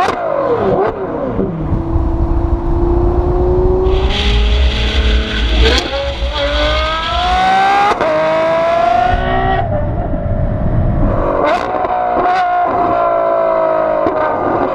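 Ferrari F12-based Novitec Rosso N-Largo's V12 through its loud aftermarket exhaust, accelerating hard with its pitch climbing and dropping briefly at several gear changes, then running steadily. Two sharp exhaust cracks come about two thirds of the way in.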